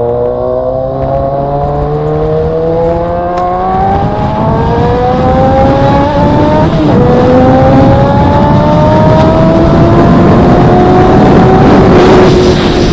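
Motorcycle engine accelerating under load, its pitch climbing steadily and dropping twice at upshifts, about four and seven seconds in. Heavy wind rush on the microphone grows with speed.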